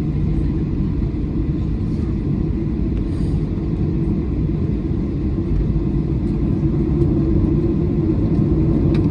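Steady low rumble of a Boeing 737-900's engines and airframe heard inside the passenger cabin, growing slightly louder toward the end.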